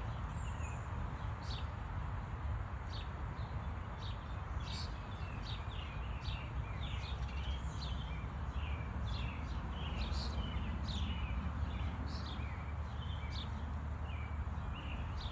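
Small songbirds chirping and calling again and again, with sharp, high notes about once a second, over a steady low rumble.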